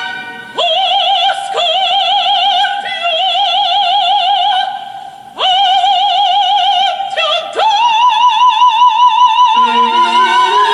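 Operatic soprano singing a series of long held high notes with wide vibrato, with a short break about five seconds in. She then climbs to a higher note that she holds to the close, as low orchestral notes come in under her near the end.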